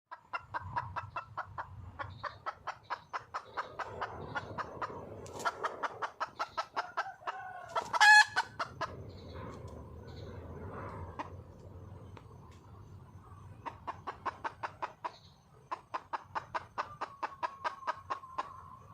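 Wild red junglefowl hen calling for a mate with rapid runs of clucks, about five a second, in several bouts. One short, loud, higher-pitched call comes about eight seconds in.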